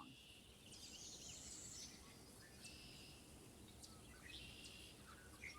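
Faint songbirds singing several short, high, buzzy phrases over a low background hum of the outdoors.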